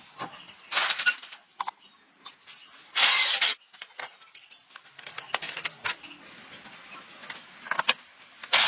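Truck repair work: irregular metallic clicks and clinks of tools and parts, with short bursts of hissing noise, the longest and loudest about three seconds in.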